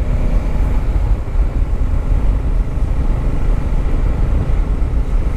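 Motorcycle riding along at steady speed, its engine and the wind rumbling heavily on the microphone.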